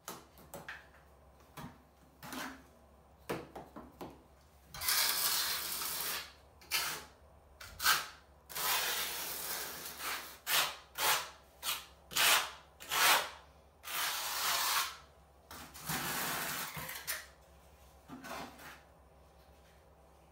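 A trowel scraping and spreading thin-set mortar, in repeated strokes of a second or two, with scattered taps and knocks between them.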